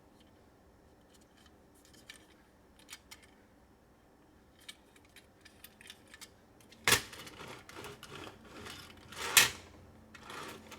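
Small plastic toy cars being handled: sparse light clicks, then louder clattering with two sharp clacks, about seven and nine and a half seconds in.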